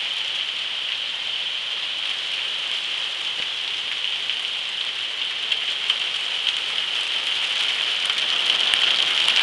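Hail coming down hard, a dense steady patter with scattered sharp clicks of stones striking, growing a little louder near the end.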